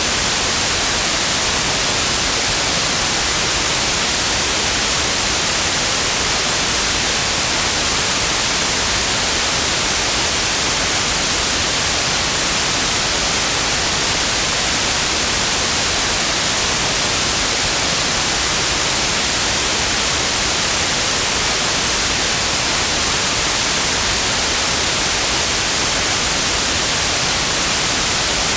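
Steady white noise: an even, unchanging hiss, strongest in the highs, with no other sound.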